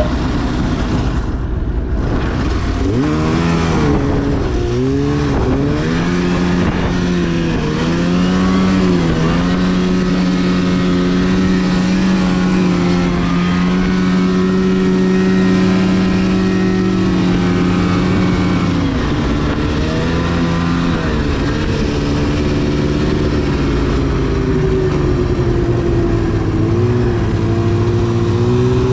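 2010 Arctic Cat CFR 1000 snowmobile's two-stroke twin engine running under throttle. It climbs in pitch about three seconds in, then eases off and picks up again several times, with long stretches held at a steady high pitch.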